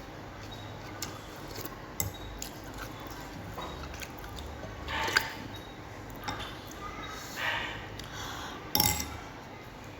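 Eating noodle soup: short slurps and mouth sounds, with scattered sharp clinks of a spoon or chopsticks against a bowl.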